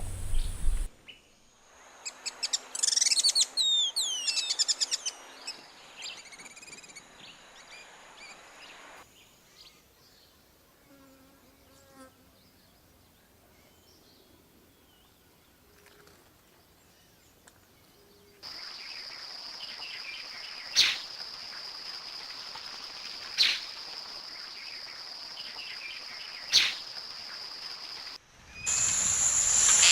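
Wild birds calling in a run of separate clips: quick high chirps and gliding whistles early on, then a quiet stretch with faint calls. In the later part a steady high insect drone runs under three sharp, loud clicks, and a new burst of bird calls starts near the end.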